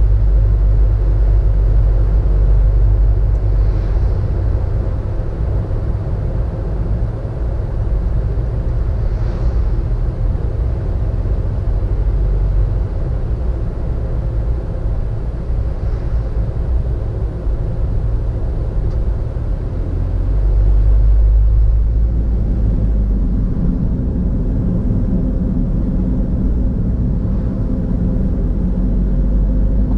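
Car driving, heard from inside: steady low engine and road rumble, swelling briefly about two-thirds of the way through.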